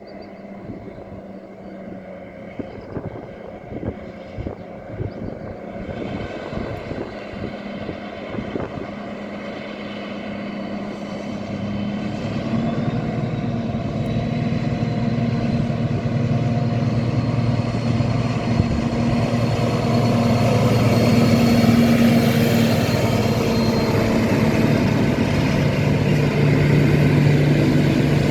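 Train approaching, its engine's steady drone growing louder through the stretch and loudest in the last third.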